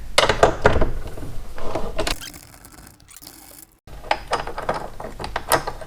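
Ratchet wrench clicking in quick runs while a 3/4-inch bolt is worked loose, with a brief pause a little past halfway.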